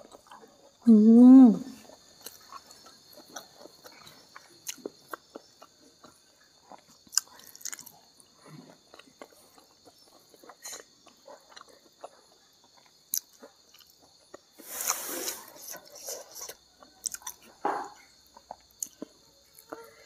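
Close-miked, wet chewing and lip smacks of a mouthful of rice and salted fish, in many small irregular clicks. About a second in comes a brief wavering 'mmm' hum of enjoyment. Crickets chirp steadily in the background.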